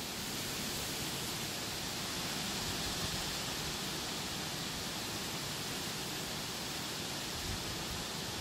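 Steady rushing hiss of strong wind blowing through trees.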